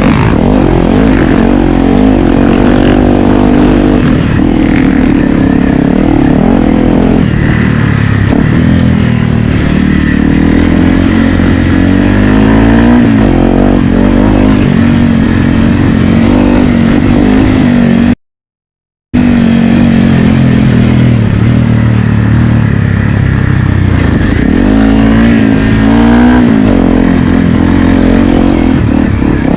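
Honda CRF250L's single-cylinder four-stroke engine revving up and down as it is ridden around a dirt track, the pitch rising and falling again and again. The sound drops out completely for about a second past the middle.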